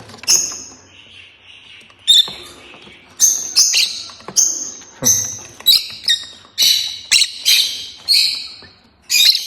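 Small pet parrots calling: a run of about a dozen short, high-pitched chirps, one or two a second, starting about two seconds in.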